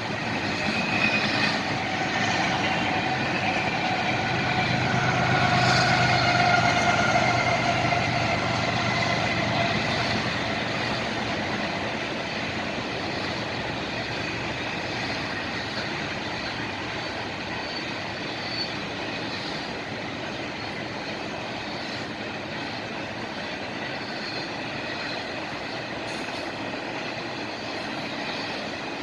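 Freight train rolling past: a steady rumble and clatter of rail cars, with a few held squealing tones over roughly the first ten seconds. It is loudest about six seconds in, then eases to a lower steady level.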